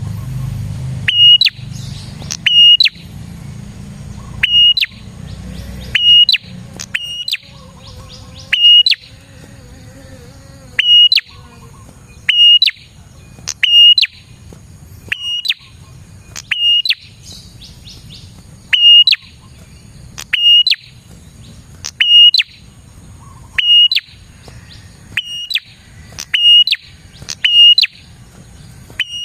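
Prenjak (prinia) calling: a loud, short, high note that flicks up sharply, repeated every one to two seconds.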